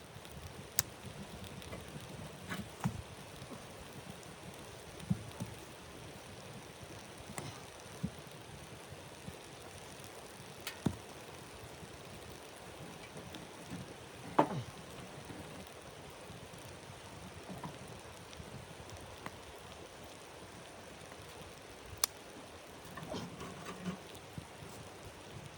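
Wood fire crackling, with sparse sharp pops every few seconds over a steady low hiss.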